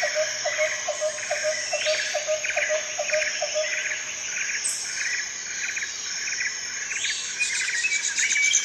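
Outdoor ambience of birds chirping over a steady insect hiss, with repeated trilled chirps throughout. A run of even lower-pitched notes, about three a second, stops a few seconds in.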